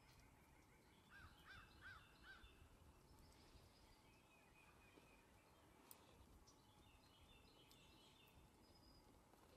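Faint bird calls over a low, steady wind rumble. A run of four short arched calls comes about a second in, with fainter high chirping now and then.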